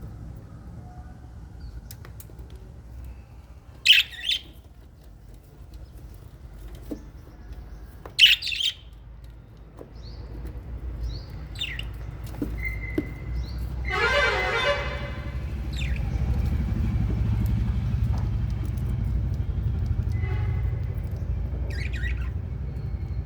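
Small parrots in an aviary, lovebirds and budgerigars, calling: two loud, sharp shrieks about four seconds apart, then scattered chirps and a denser chattering burst near the middle. Under the calls is a low rumble that grows louder in the second half.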